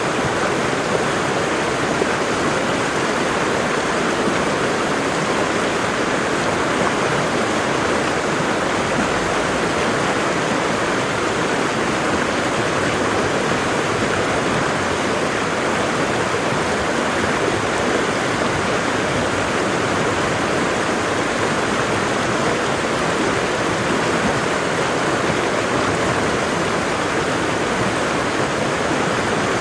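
Waterfall: water falling and rushing in a steady, unbroken roar of white-noise-like sound.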